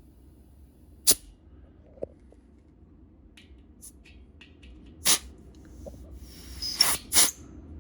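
Short bursts of compressed air hissing at a well bladder tank's air valve as the tank is pressurized with an air compressor to about 60 PSI: one hiss about a second in, then three more close together near the end, the last two over a rising hiss.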